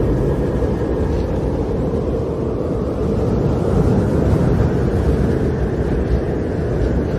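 Snowstorm wind blowing hard and steadily, a deep rushing that swells a little about three seconds in.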